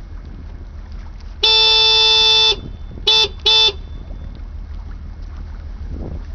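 A car horn honked close by: one long blast followed by two short ones, loud and fairly high-pitched, over steady wind noise on the microphone.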